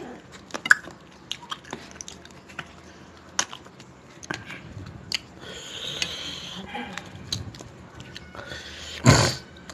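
Chewing with small scattered mouth and finger clicks as a man eats naan and chicken curry by hand, and one loud short sound near the end.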